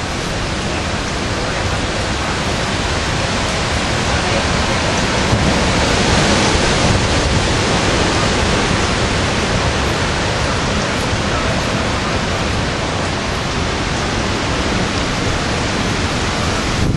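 Hurricane wind and rain: a loud, steady rush that swells a little about five seconds in.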